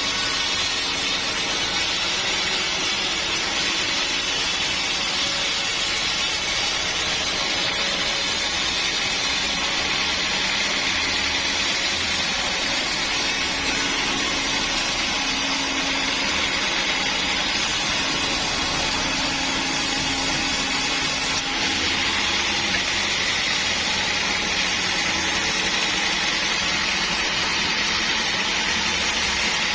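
Sawmill saw running steadily, a continuous mechanical noise with no breaks or pauses.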